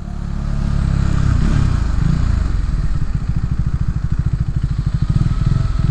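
Motorcycle engine running at low speed, with a low, even pulsing from about two seconds in.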